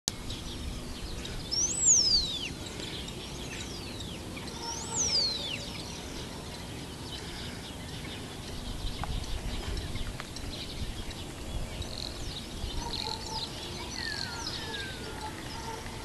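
Wild birds calling outdoors, over a low background rumble. Two loud, sharp calls about two and five seconds in each rise quickly to a high peak and then fall steeply. Softer chirps follow later.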